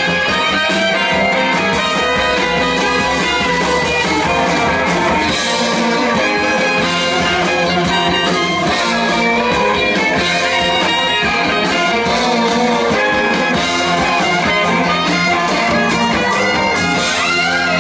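Live blues-rock band playing loudly, with electric guitar, drums and horns.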